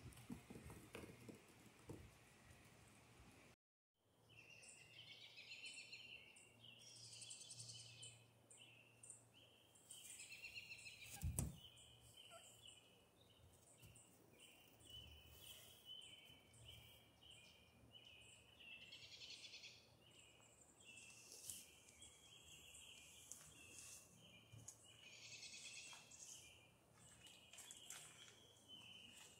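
Faint birdsong: repeated high chirps and short trills, with a single sharp click about eleven seconds in.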